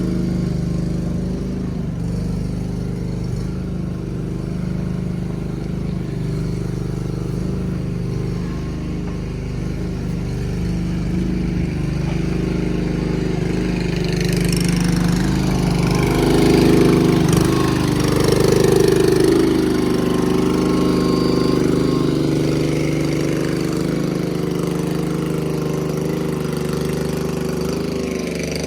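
An engine running steadily, which grows louder and busier for several seconds past the middle before settling back.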